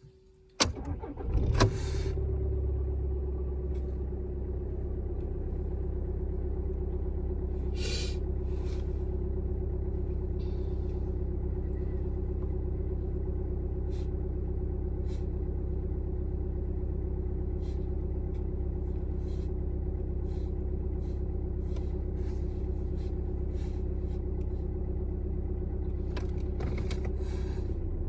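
Cold start of a 2012 VW Passat B7's 2.0 TDI four-cylinder diesel: a brief crank about a second in, then it catches and settles into a steady idle. A few sharp clicks are heard over the idle, and the engine note drops slightly near the end.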